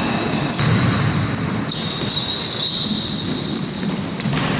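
Basketball game on an indoor court: many overlapping high-pitched sneaker squeaks on the floor, starting and stopping every fraction of a second, with the ball bouncing.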